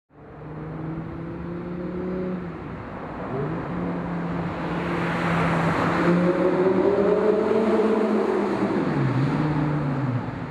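Audi R8's 4.2-litre V8 heard through a Fabspeed Supersport aftermarket exhaust, running on the road. The engine note holds steady at first, then climbs in pitch and loudness to a peak about eight seconds in before dropping away.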